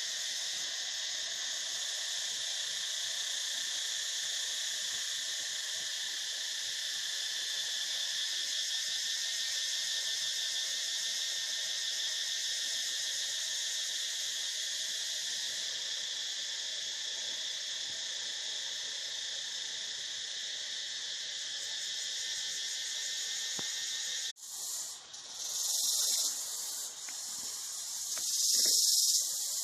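Steady, high-pitched chorus of insects chirring, which cuts off abruptly about five seconds before the end. It gives way to a higher hiss that swells and fades.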